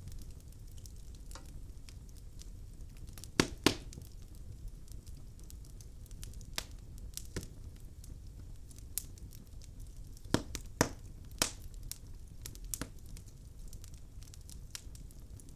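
Logs burning in a fireplace, crackling with irregular sharp pops over a low steady rumble. There is a loud double pop about three and a half seconds in and a cluster of louder pops around ten to eleven seconds.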